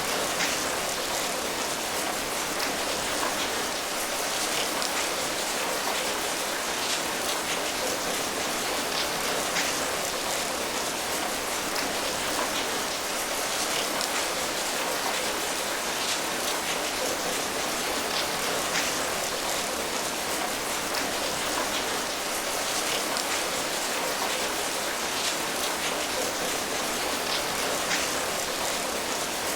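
Steady rain falling, a continuous hiss with many small drop patters over it.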